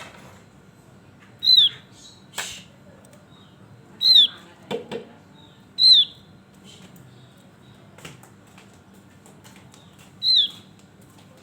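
Javan grey-throated white-eye (opior jawa) giving short, sharp calls four times, each a quick note sliding downward, at uneven intervals. A sharp click about two and a half seconds in and a couple of softer sounds just before the halfway point come in between the calls.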